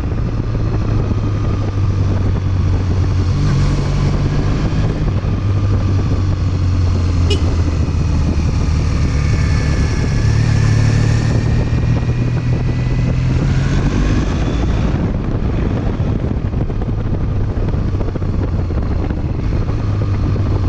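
Triumph Bonneville parallel-twin engine running on the move, its note mostly steady and rising in pitch twice, around four seconds in and again from about ten to fourteen seconds, as the throttle is opened.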